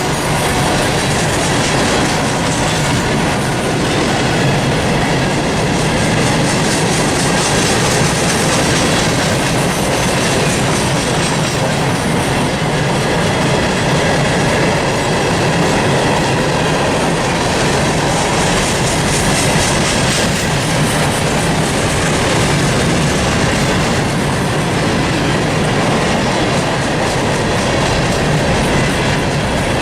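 Freight train rolling steadily past at close range: continuous wheel-on-rail noise with the clickety-clack of the cars' wheels over the track.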